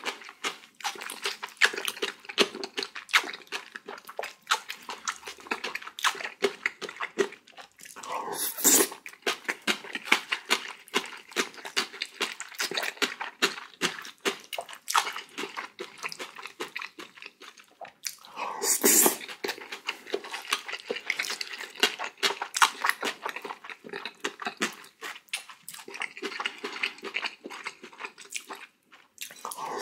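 Close-miked chewing of rice topped with raw oyster: a dense run of small mouth clicks, with two louder bursts about nine and nineteen seconds in.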